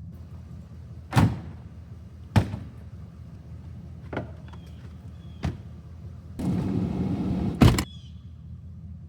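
Camping gear being loaded into a vehicle: several separate thumps, then about a second of sliding rumble ending in a loud slam as a door shuts near the end, over a steady low hum.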